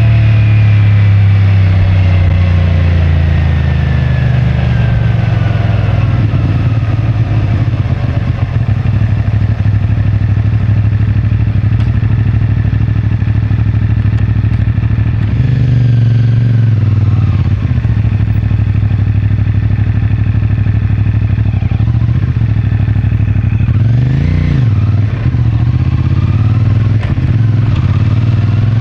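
CFMoto 450MT's parallel-twin engine through its stock exhaust. It slows down at the start, then runs at low revs for several seconds. It picks up and drops back about halfway, gives a quick rev up and down a few seconds before the end, and rises again as the bike pulls away.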